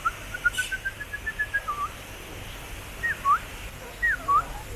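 A bird's clear whistled calls: a quick run of about eight short notes in the first two seconds, then two separate whistles that each slide down in pitch, about a second apart.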